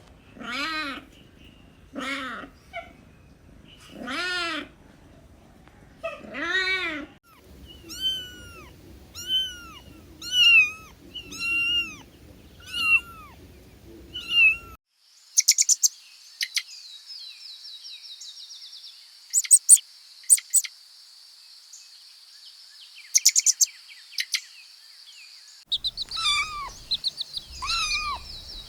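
Kittens meowing in a series of short arching mews about every one to two seconds, lower ones first and then higher, thinner ones. About halfway through, the sound switches abruptly to a steady high-pitched buzz with sharp clicks. A few more mews come near the end.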